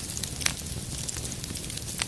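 Wood fire crackling, with scattered sharp pops over a steady low rumble of flame. One pop about half a second in is the loudest.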